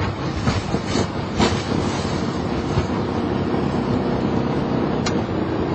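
Boeing 737-800 rolling on the ground: a steady rumble of engines and wheels with a few sharp knocks, the strongest about a second and a half in and another near the end.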